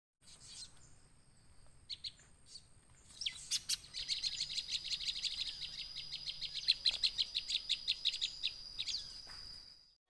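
Prenjak (prinia) singing: a few separate high chirps, then about four seconds in a fast, even run of about eight sharp notes a second that stops near the end.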